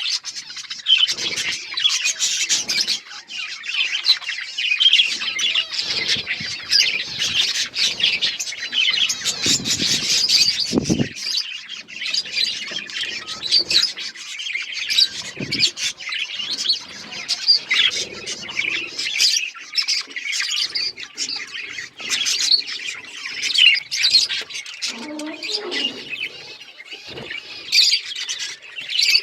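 A flock of budgerigars chirping and chattering without pause, many short calls overlapping.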